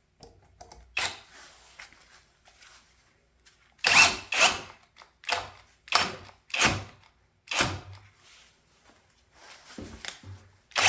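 Cordless brushless drill run in a string of short bursts, each cutting off abruptly: the drill is shutting off under load with a 7/8-inch bit on speed 2.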